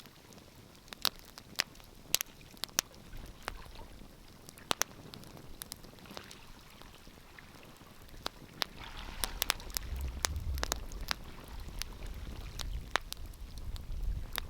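Wood fire crackling, with irregular sharp pops and snaps. A low rumble comes in and builds about halfway through.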